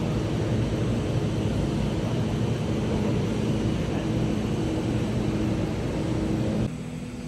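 Laser cutting machine running as it cuts a saw blade: a steady noise with a low hum, which drops off abruptly near the end as the cut stops.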